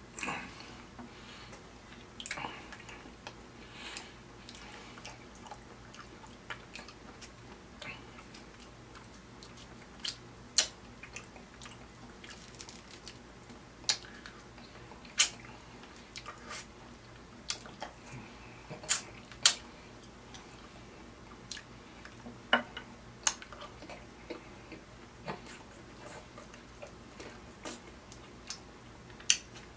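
Close-miked mouth sounds of a man eating saucy ribeye steak off the bone and baked beans: wet chewing and irregular sharp lip smacks, a few of them much louder than the rest.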